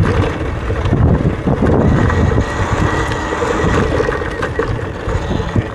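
Wind rumbling hard on the microphone while riding a Talaria electric dirt bike, with a faint steady whine joining from about two seconds in.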